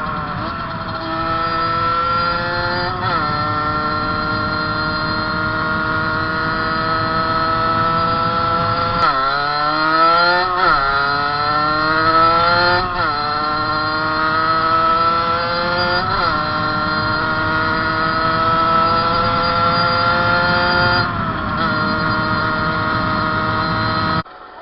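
Fantic 50's two-stroke 50 cc engine ridden at full throttle: it holds a high steady pitch, drops briefly and climbs again at each gear change, with a run of quick shifts and rising revs around the middle. Just before the end the sound drops away suddenly.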